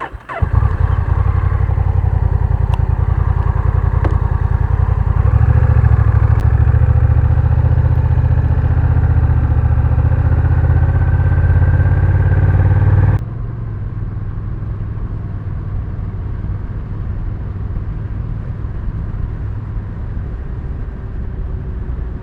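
Honda Rebel 1100's parallel-twin engine idling with a steady low, pulsing note, coming in suddenly at the start. About thirteen seconds in it drops abruptly to a quieter level.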